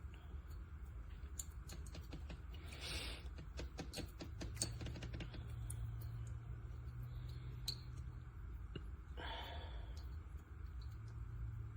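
Single-serve coffee maker working through a slow brew: a low hum that swells from about four to eight seconds in and again near the end, with scattered small clicks and two short hissing bursts, at about three and nine seconds in.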